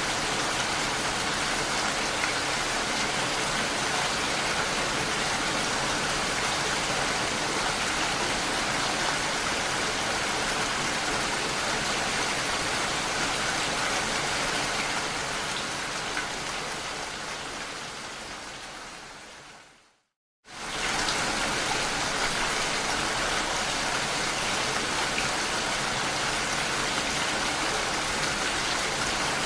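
Steady rain. About two-thirds of the way through it fades away to a moment of silence, then comes back suddenly at full level.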